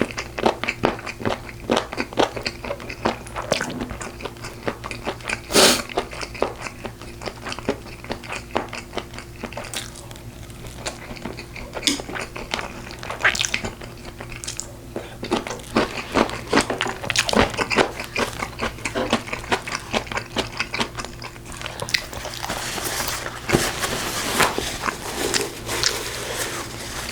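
Close-miked eating sounds of braised pork ribs being bitten and chewed: irregular wet smacks, crunches and clicks, over a faint steady low hum.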